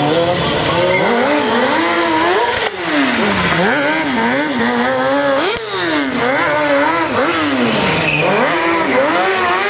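Stunt motorcycle engine revved hard up and down over and over, its pitch rising and falling about once a second while the rider warms the rear tyre.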